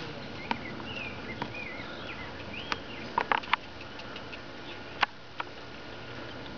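Small birds chirping in short warbling phrases during the first half, with a few sharp clicks on top. Three of the clicks come in quick succession near the middle.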